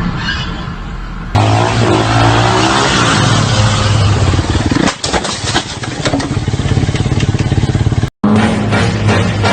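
Vehicle engines running and revving over road noise, with pitch glides, across several abruptly cut recordings. There is a brief dropout to silence near the end.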